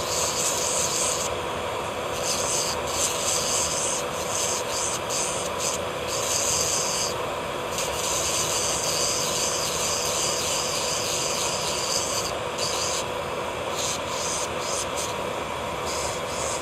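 Electric nail drill (e-file) running at a steady whine, its bit grinding against gel on the nails in short, stop-start passes.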